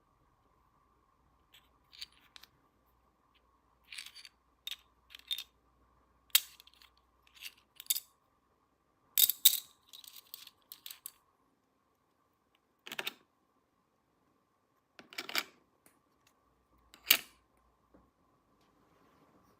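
Small plastic toy pieces clicking and clacking as they are handled and set down, in irregular clusters with short pauses between them.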